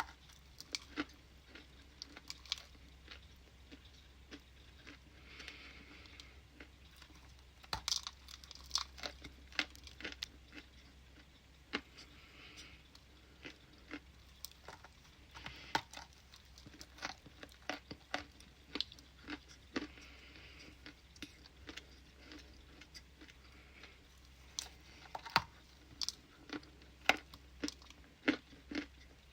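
Ice being bitten and crunched by mouth close to the microphone: irregular sharp cracks and crunches in clusters, with chewing between them.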